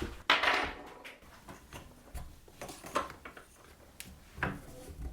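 Metal parts of a bench pillar drill being worked by hand: a short scrape or rattle about a third of a second in, then a few separate knocks and clicks, as the freshly tightened head is tested for movement.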